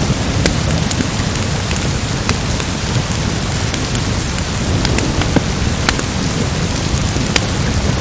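Steady heavy rain with a low rumble underneath, mixed with a crackling fireplace: scattered sharp pops and snaps every second or so.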